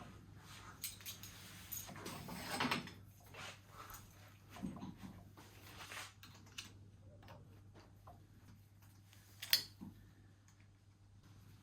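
Small parts and tools being handled on a workbench: scattered light clicks, knocks and rustles, with one sharp click about nine and a half seconds in.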